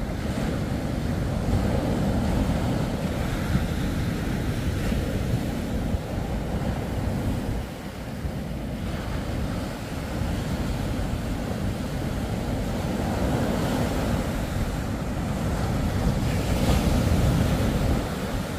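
Surf breaking and washing up the beach in repeated surges, with wind buffeting the microphone.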